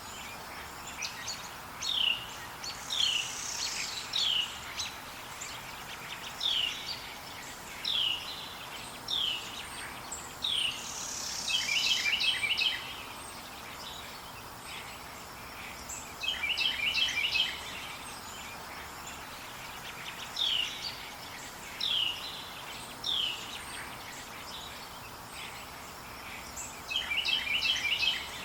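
Forest songbirds calling: single short whistled notes that slide downward, repeated every second or so in runs, and about three bursts of rapid chattering chirps, each about a second long. A steady soft hiss of ambient noise lies underneath.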